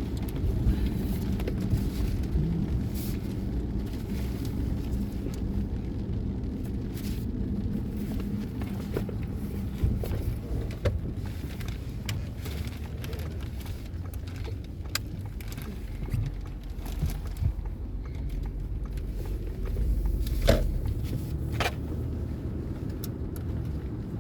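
Steady low rumble of a car driving, heard from inside the cabin, with scattered light ticks and clicks.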